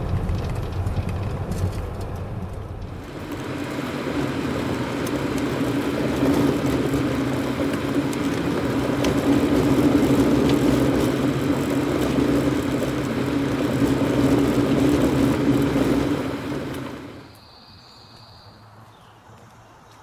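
Car driving: engine and road noise that swells about three seconds in and holds steady with a low hum, then drops away suddenly near the end, leaving a quiet background.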